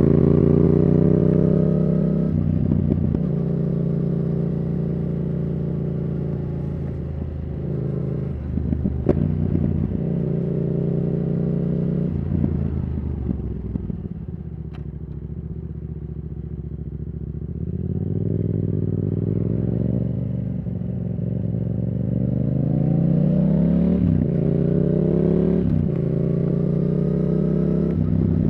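Yamaha R7's CP2 parallel-twin engine through a Yoshimura R77 exhaust, on the move. It eases off to a lower, quieter run around the middle, then pulls through the gears again, the pitch climbing and dropping back at each of several upshifts near the end.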